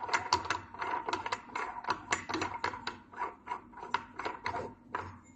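Quick run of small metal clicks and rattles, about five a second, from parts of a wet glue labeling machine being handled and taken apart by hand; it thins out and stops near the end.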